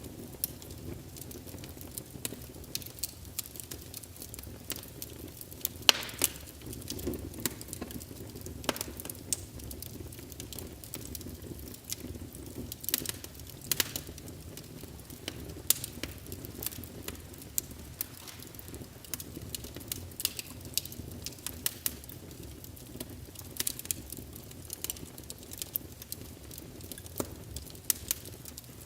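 Small wood fire in a fireplace crackling, with irregular sharp pops over a steady low rumble of the flames.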